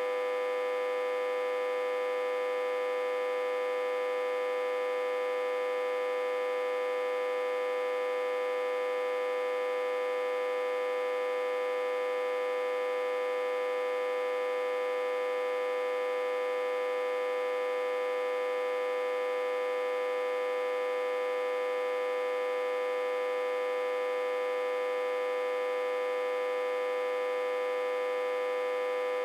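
Autotransformer humming with a steady, unchanging electrical buzz, reverse-connected to a step-down transformer and fed about 60–80 V.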